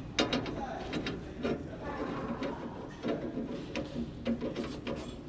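Irregular clicking and clattering of hand work on plumbing pipes and fittings.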